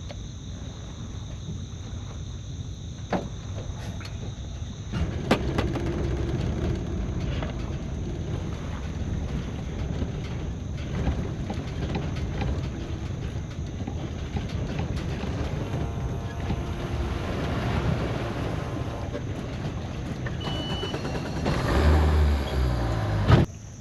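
A fishing boat running on the river: a steady low noise of motor, wind and water. It grows louder about five seconds in, swells near the end, then stops abruptly.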